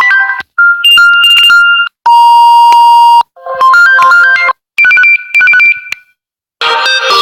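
Smartphone ringtone previews playing one after another through the phone's speaker. There are about six short electronic melodies, each a few notes long and cut off after about a second before the next begins. One is a steady beeping ring tone and one alternates between two notes.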